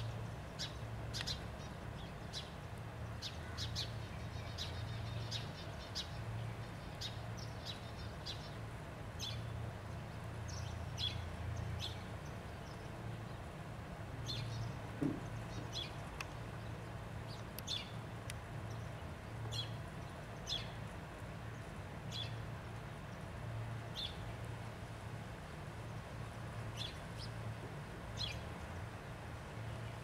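Birds chirping: short, high chirps come irregularly, about one or two a second, over a steady low hum. A single lower, louder note sounds about halfway through.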